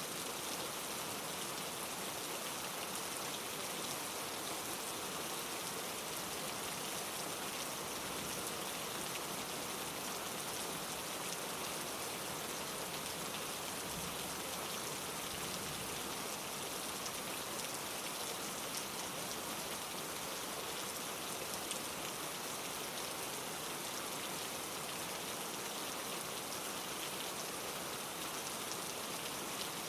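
Steady rain falling, a dense even patter of drops striking leaves.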